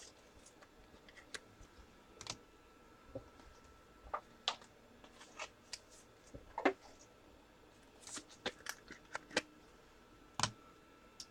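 Scattered light clicks and taps, about two dozen of them, irregularly spaced over a quiet room background, the strongest about halfway through and near the end.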